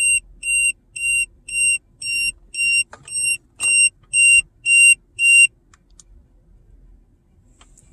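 Tire pressure monitor display beeping its alarm, a loud high-pitched beep about twice a second that stops a little over halfway through; the owner takes the alarm for a low front right tire.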